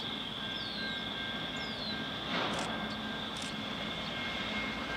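Distant approaching CN freight train's diesel locomotive, a steady low rumble under a faint hiss. There is a short burst of noise about halfway through.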